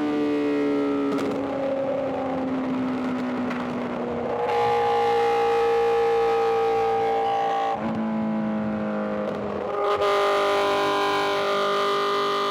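Inline-four sport-bike engine pulling at highway speed. Its note sags slowly and then jumps abruptly in pitch about a second in, about halfway, and twice near the end, as gears are changed. Wind and road noise run underneath.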